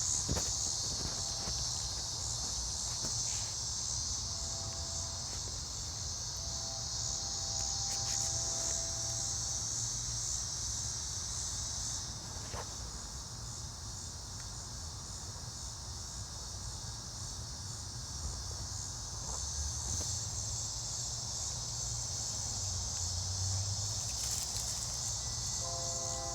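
Steady insect chorus, a continuous high-pitched trilling that does not let up, with a low rumble underneath.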